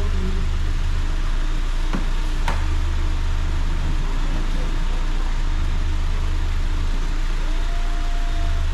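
Steady low mechanical drone under an even hiss, with a couple of sharp clicks about two seconds in.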